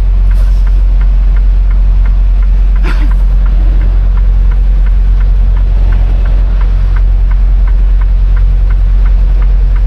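Semi-truck diesel engine idling: a steady low rumble with a regular light ticking over it.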